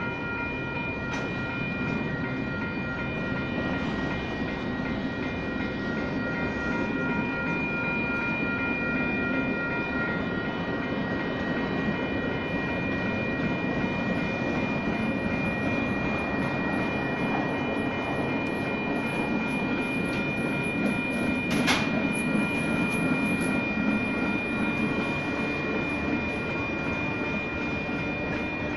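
Freight cars of a Union Pacific manifest train rolling steadily past a grade crossing, with the crossing's WCH Type 1 bells ringing over the rumble. A thin high squeal joins about twelve seconds in. A single sharp bang comes about three-quarters of the way through.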